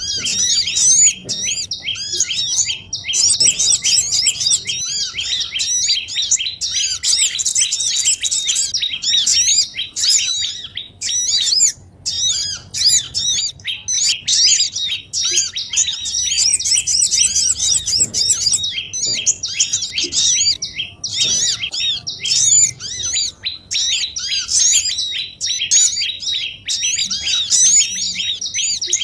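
A dense chorus of small songbirds chirping and twittering rapidly without pause, many high calls overlapping, briefly thinning about twelve seconds in. This is a bird-trapping lure call meant to draw small wild birds such as sogon and prenjak in.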